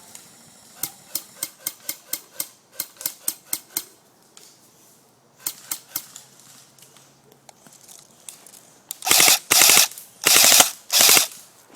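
Airsoft rifle fire: a quick string of single shots, about three a second, then near the end four short, loud bursts of full-auto fire.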